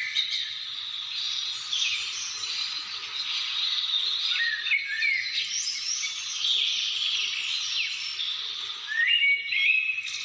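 Several birds singing and calling at once. One of them repeats a short stepped phrase three times, roughly every four and a half seconds.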